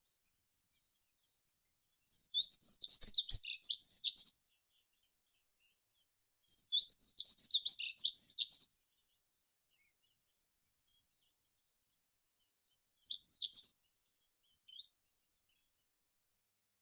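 A songbird singing: two loud phrases of rapid high notes, each about two seconds long, and a shorter phrase near the end, with faint high chirps in between.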